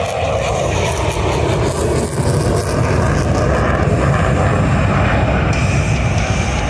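Boeing F/A-18 Super Hornet's twin General Electric F414 jet engines running at high power as the fighter pulls a hard 7G minimum-radius turn. The noise grows a little louder about two seconds in.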